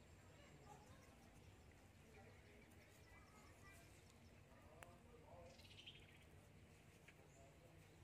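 Near silence: faint outdoor ambience with scattered distant bird chirps and a single faint click about five seconds in.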